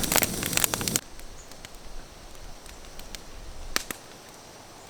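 Campfire crackling with rapid sharp snaps for about a second, then cutting off abruptly to a quiet outdoor background with a few scattered clicks.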